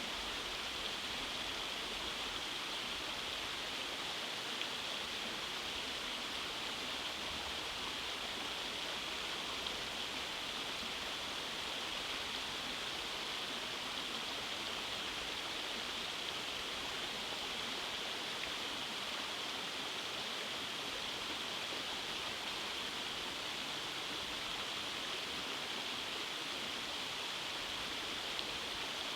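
Rainforest stream running over small cascades: a steady, even rush of water with a bright hiss.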